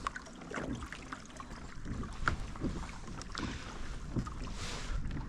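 Small irregular knocks and taps of gear against a kayak, over faint water and wind noise, with a brief rushing swell near the end.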